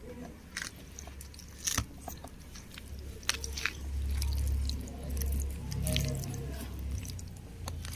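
Hands mixing chicken lollipop pieces into a wet masala paste: squishing and squelching with scattered small clicks and taps, over a low rumble that swells in the middle.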